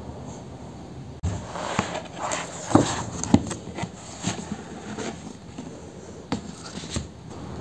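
A steady low background noise, then, after an abrupt change a little over a second in, a run of light knocks and clicks from objects being handled, with two louder knocks near the middle.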